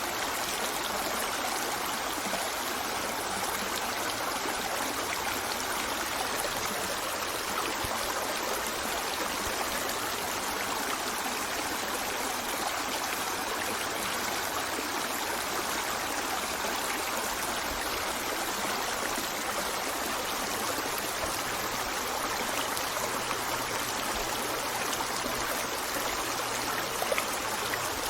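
A stream of water running and trickling steadily, an even rushing with no breaks.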